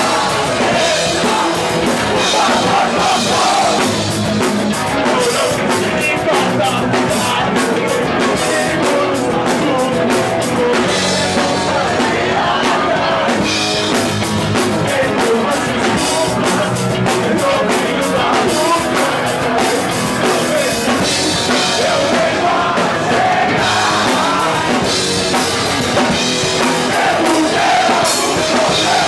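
Punk rock band playing at full volume: drum kit with busy cymbals and shouted singing.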